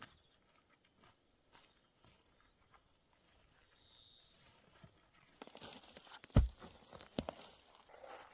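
Handling noise: sparse faint clicks, then from about five seconds in a run of rustles and knocks with one heavy thump.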